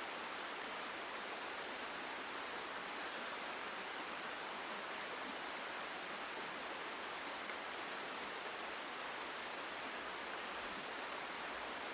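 River water running steadily, an even rushing hiss that does not change.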